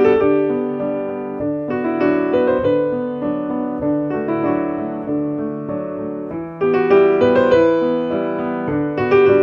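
Background piano music: slow, gentle chords and notes, with a fresh louder chord struck near the start, about two seconds in, and again about two-thirds of the way through.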